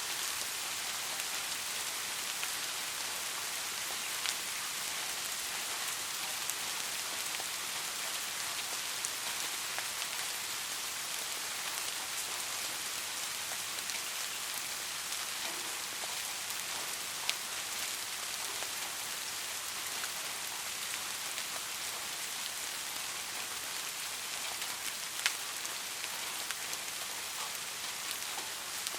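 Steady rain falling, an even hiss, with a few louder drops ticking sharply now and then.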